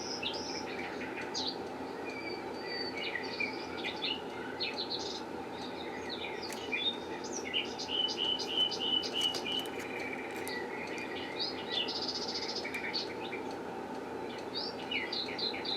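Small birds chirping and twittering almost without a break, with short whistled glides and a quick trill of repeated notes about halfway through, over a steady low background hum.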